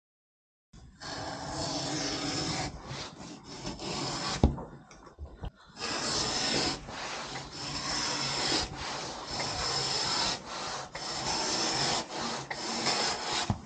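Repeated long, rough rasping strokes of a tool working a board, in runs of a second or two with short pauses, and one sharp knock about four and a half seconds in.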